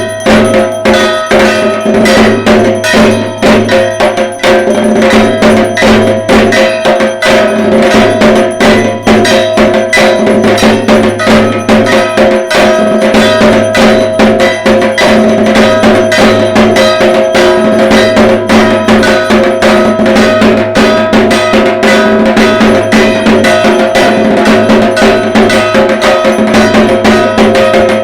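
Dhak, the Bengali barrel drum of Durga Puja, beaten with sticks in a fast, unbroken rhythm, with a ringing metallic clang sounding alongside the strokes.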